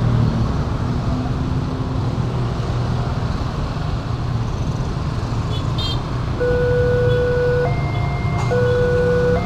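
Road traffic running past, then about six seconds in the level-crossing warning alarm starts: an electronic two-tone signal switching between a lower and a higher note about once a second, the sign that a train is approaching and the barriers are about to close.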